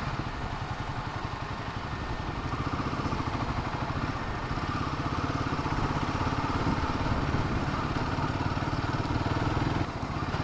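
Royal Enfield Himalayan 450's single-cylinder engine running at low road speed, a steady rapid pulsing, easing off briefly near the end.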